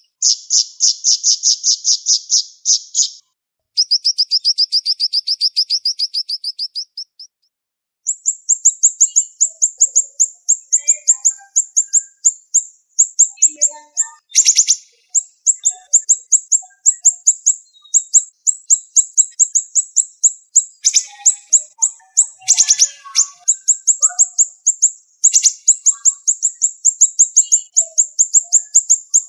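Siri-siri songbird singing long, fast, tightly packed trills of sharp, high repeated notes, with a couple of short breaks early on.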